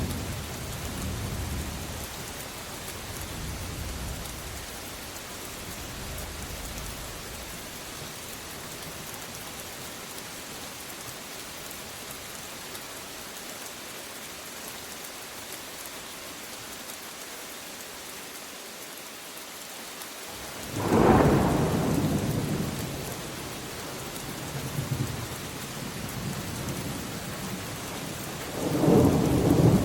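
Steady rain falling, with rolling thunder: a low rumble dying away in the first few seconds, a loud thunderclap about two-thirds of the way through that rumbles on for a few seconds, and another loud clap near the end.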